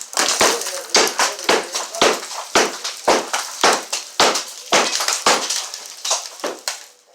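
Hammer blows breaking up a wall during demolition, struck steadily about twice a second, each hit followed by crumbling and rattling debris.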